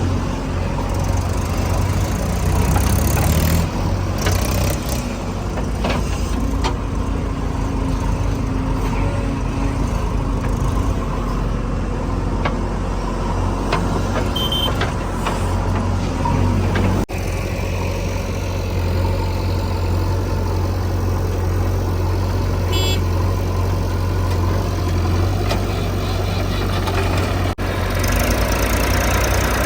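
Diesel engine of a JCB 3DX backhoe loader running steadily at work, with a few knocks and clanks scattered through, and the sound cutting out for an instant twice.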